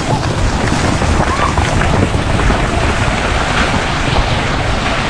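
Wind buffeting the microphone: a loud, steady rush with rumbling low gusts throughout.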